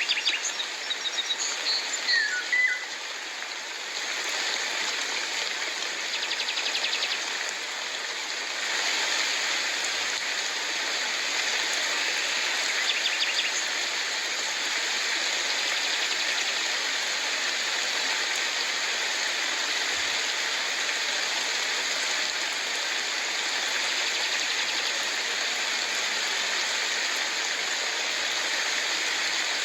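Steady rain falling, with a few short bird chirps in the first few seconds. The rain gets a little louder about nine seconds in.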